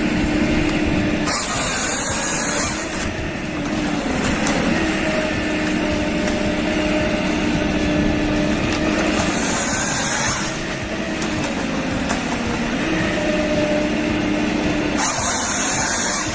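Heavy machine engine running steadily, with a high hiss of about a second breaking in three times, roughly every six seconds.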